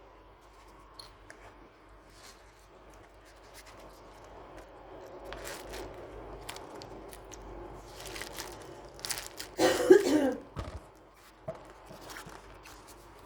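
Paper being handled in crafting: scattered faint crinkles and clicks, busier from about five seconds in, with one loud short burst about ten seconds in.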